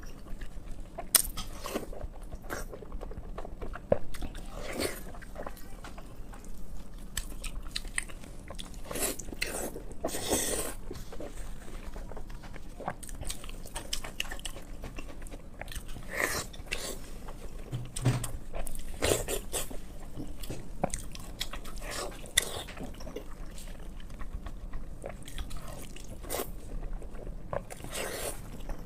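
A person eating close to the microphone: biting and chewing pork in sauce, with irregular short mouth clicks and smacks.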